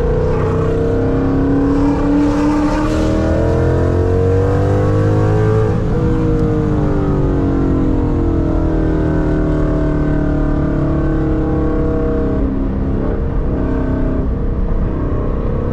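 Ford Mustang GT's 5.0 V8 engine running under acceleration. Its pitch rises for about the first six seconds, then falls away, rises gently once more and drops near the end.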